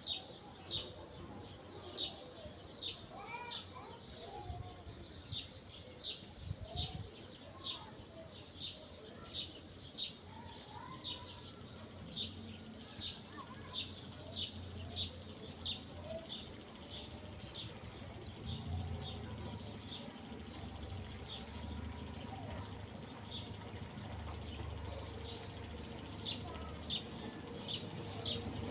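A bird repeating one short, high chirp at a steady pace, about one and a half a second, with fainter bird calls lower down. A low steady rumble comes up about two thirds of the way through.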